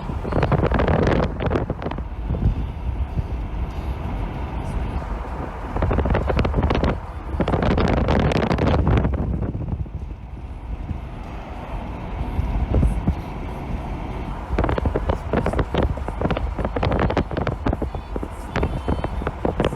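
Wind buffeting the microphone: a gusty rumble that swells and eases in surges.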